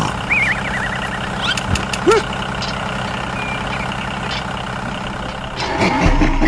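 Tractor engine idling steadily, with cartoon sound effects on top: a wavering whistle near the start, a short rising blip about two seconds in, and a cluster of quick bouncy glides near the end.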